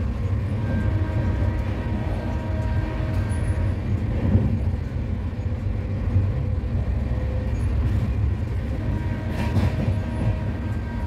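An LHB passenger coach running at speed, heard from its door vestibule: a steady low rumble of wheels on rails, with faint steady tones above it. A brief louder rush of noise comes about nine and a half seconds in.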